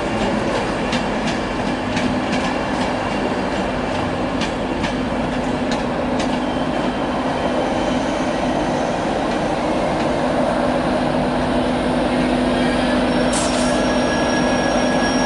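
InterCity 125 High Speed Train with its class 43 diesel power car, running with a steady engine hum under the rumble of the train. In the first half, wheels click over rail joints.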